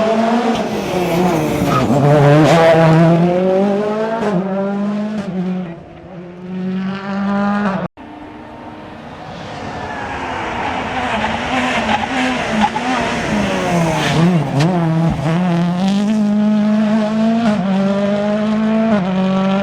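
Rally car engine revving hard through the gears on a special stage, pitch climbing and dropping with each shift and lift as the car passes; the sound cuts off abruptly near the eight-second mark and a second rally car is heard approaching and running through its gears the same way.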